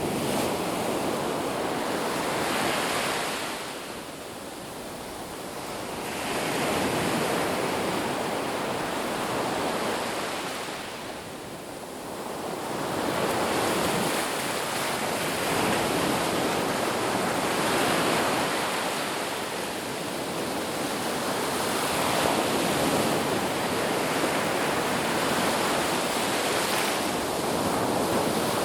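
Ocean waves breaking on a beach: a steady wash of surf that swells and eases every few seconds.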